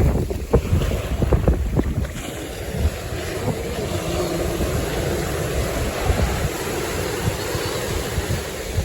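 Wind buffeting the microphone and shallow surf washing around, with gusty rumble and knocks in the first two seconds, then a steady wash of waves.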